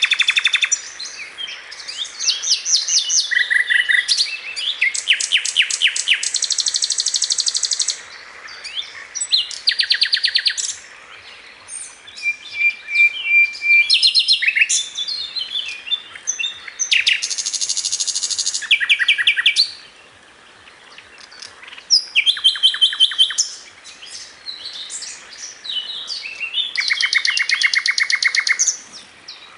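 Birds singing and chirping. Several songs overlap, full of fast trills of rapidly repeated notes, with a few brief lulls.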